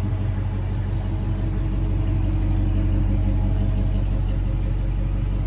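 A motor vehicle engine idling, a steady low drone that holds the same pitch throughout.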